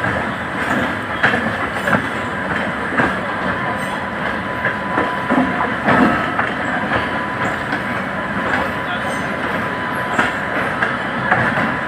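Two trains running side by side on parallel tracks, heard from the open door of a passenger coach: a steady rumble of wheels on rail with irregular clicks and clatter over the rail joints. A faint steady whine sits under the noise.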